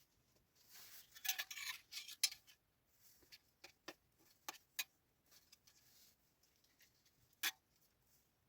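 Close handling noises: a rustle, then a handful of scattered sharp clicks or snaps, the loudest near the end.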